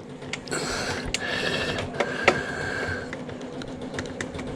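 Faint mechanical whirring in two short spurts, about a second in and again around two seconds in, with a few sharp clicks from handling metal parts during dismantling.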